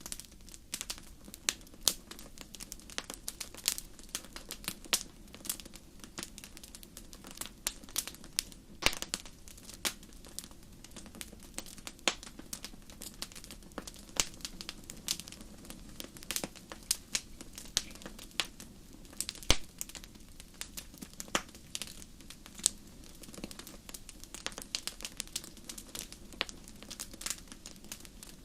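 Wood fire crackling in a fireplace: irregular sharp pops and snaps, often several a second, over a low steady rumble of the flames, with a louder pop about two-thirds of the way through.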